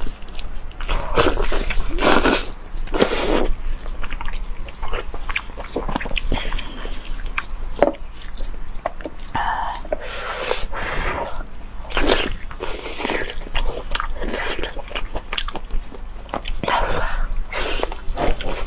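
Close-miked biting, tearing and chewing of a large piece of fatty braised meat coated in chili oil, heard as many short, irregular mouth smacks and bites.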